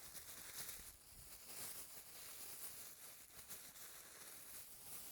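Faint, irregular rustling and crinkling of clothing and a bag being handled.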